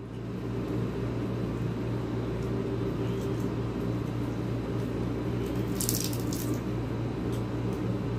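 A man chewing a mouthful of rice and fried tilapia, with steady wet, squishy mouth sounds close to the microphone and a few brief sharper smacks about six seconds in.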